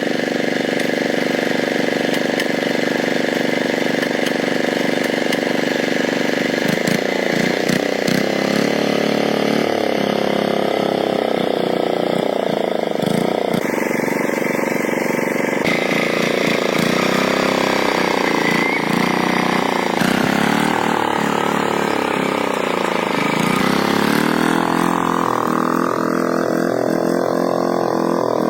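Old tractor engine running, steady at first, then its pitch rising and falling repeatedly from about six seconds in as the engine speed changes.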